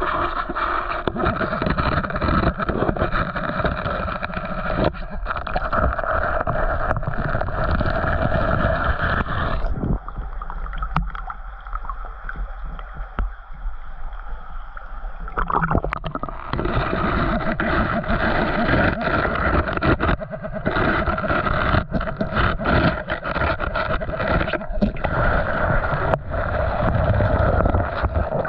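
Muffled water sloshing and gurgling around the microphone, with many small knocks and bumps. It thins out and drops for several seconds midway, then comes back.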